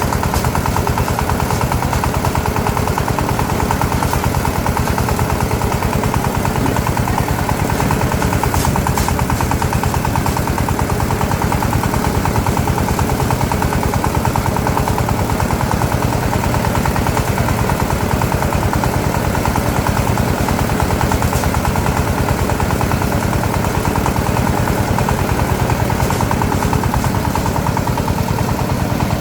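Small engine running steadily at constant speed, a fast even putter without let-up.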